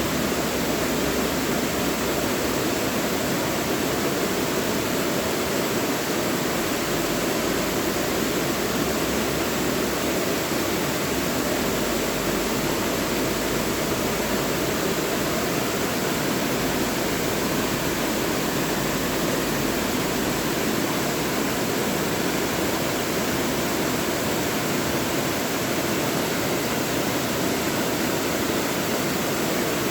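Mountain valley stream rushing steadily over rocks, a constant even rush of water with no breaks.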